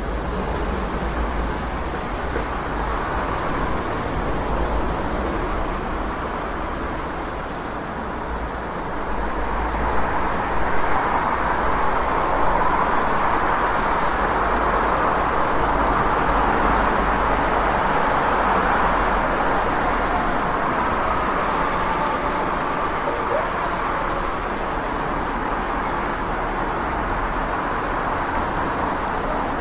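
City street traffic noise: a steady wash of passing cars with a low rumble underneath, swelling louder for a stretch about a third of the way in as heavier traffic goes by.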